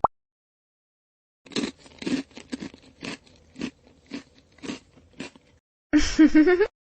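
Crunchy food being bitten and chewed: about ten crisp, irregular crunches, followed near the end by a short wavering vocal sound.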